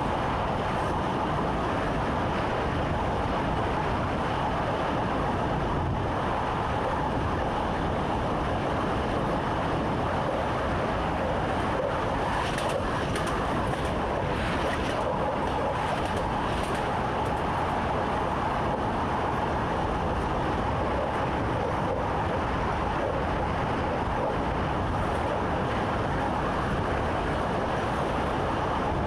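Train running steadily along the track, heard from inside the driver's cab: a continuous rumble with a few faint clicks partway through.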